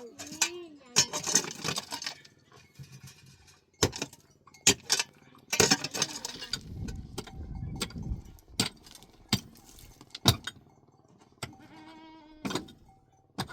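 Scattered sharp knocks and clinks of handled objects, with two brief rustling stretches and a short bleat from livestock near the end.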